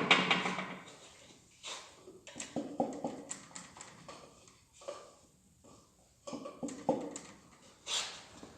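Steel engine parts being handled: a connecting rod cap fitted back onto its rod and its bolts run in by hand, not tightened. A sharp metal clank at the start, then scattered small clicks and taps, with a quieter stretch about halfway through.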